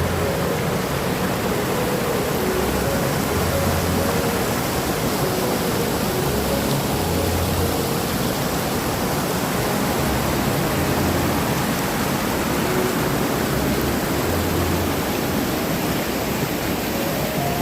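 Waterfall rushing steadily, an even roar of falling water that does not change. Faint background music with soft low notes runs underneath.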